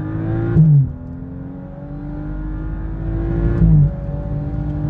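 BMW 435i's turbocharged inline-six, fitted with an aftermarket downpipe, accelerating hard at full throttle. The engine note climbs through a gear and drops sharply at two quick upshifts of the eight-speed automatic, under a second in and near four seconds in, each marked by a short loud burst.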